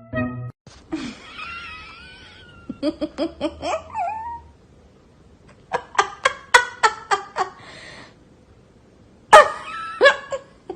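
Short animal calls alongside runs of rapid, pulsed human laughter.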